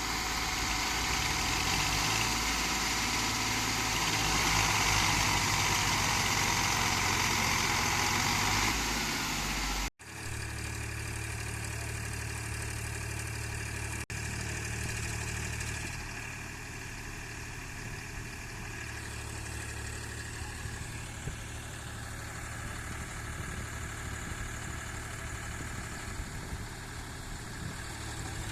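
Tractor diesel engine running, loud and noisy. About ten seconds in it cuts abruptly to a second tractor's engine running steadily and more quietly.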